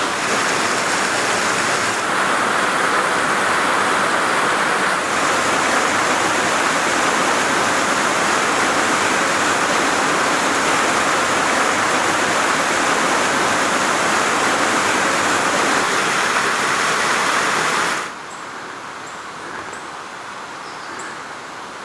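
Steady loud rush of flowing water, as from a stream or small waterfall. About eighteen seconds in it drops suddenly to a much quieter hiss with a few faint high chirps.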